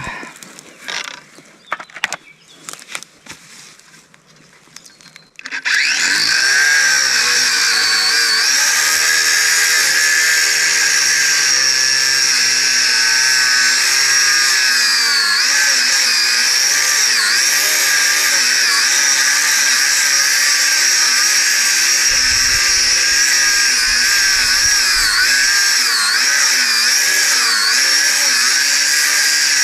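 A few handling knocks, then about five seconds in a power cutting tool starts and runs continuously, cutting into a heavy piece of iron. Its high whine dips and recovers in pitch again and again as the blade loads up.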